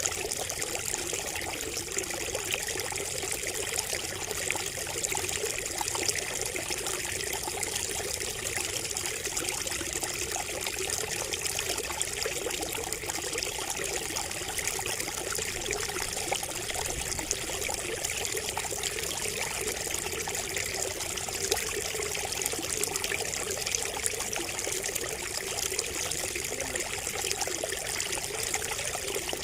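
Water trickling steadily from a bamboo spout, a continuous splashing babble with no pauses.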